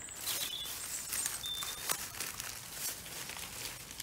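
Plastic bird-food packaging rustling and crinkling in a series of short handling noises as seed packets are emptied and shifted, with a few brief wild bird chirps.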